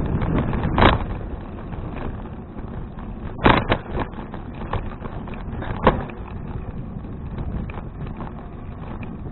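Wind rumbling on a handlebar action camera's microphone while riding a bicycle, with three sharp knocks from the bike jolting over bumps, about a second in, midway and past the middle.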